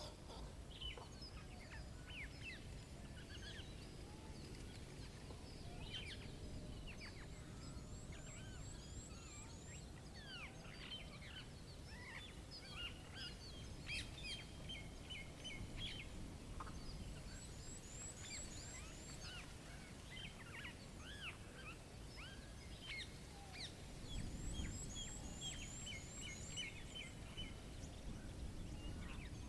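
Songbirds chirping and calling in a forest chorus: many short chirps, a high series of quick falling notes repeated several times, and a rapid trill heard twice, over a faint, steady low rumble.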